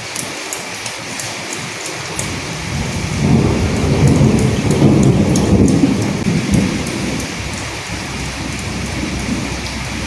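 Steady rain with scattered drops ticking. A low roll of thunder builds about three seconds in, is loudest in the middle, and dies away a few seconds later.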